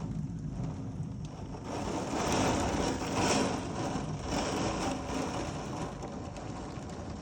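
Heavy thunderstorm rain pouring down as a steady hiss, swelling louder about two seconds in and easing off again.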